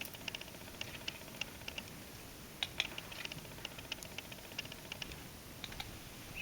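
Small songbirds, most likely black-capped chickadees, giving short high chip notes over a low hiss. The notes are scattered and come in quick runs of several a second, busiest a little under halfway through.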